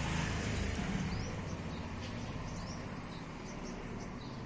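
Small birds chirping outdoors: short, high, rising chirps about two a second. A low background rumble underneath fades away.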